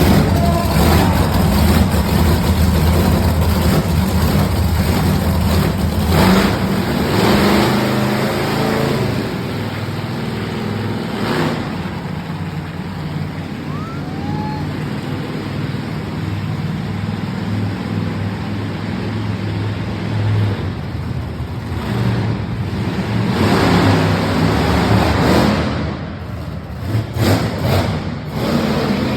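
Monster truck engine running loud and revving, surging several times.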